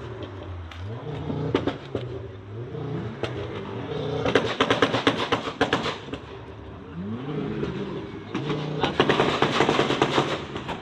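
Modified car's engine revving up and down as it drives past, with two rapid runs of exhaust pops and crackles, about four seconds in and again near the end.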